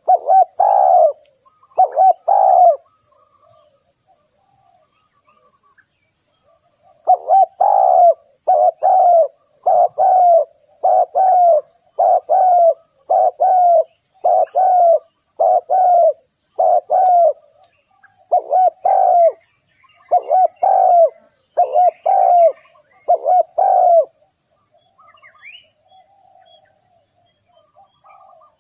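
Spotted dove cooing as a decoy call: a few coos at the start, a pause of about four seconds, then a long run of evenly repeated coo phrases, one to two a second, stopping a few seconds before the end. A faint steady high hiss runs underneath, and small birds chirp faintly near the end.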